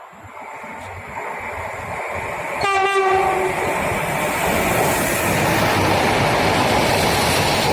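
Freight train approaching and passing, growing steadily louder. It sounds one short horn blast between two and three seconds in, then the passing wagons make a loud, steady rumble.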